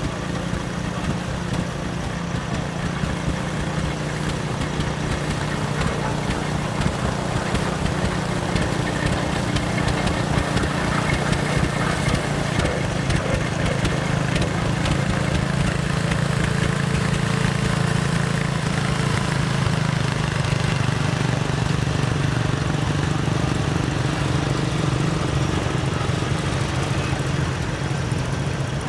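Antique tractor engine running at a steady, even speed: a low drone that grows slightly louder over the first several seconds and then holds.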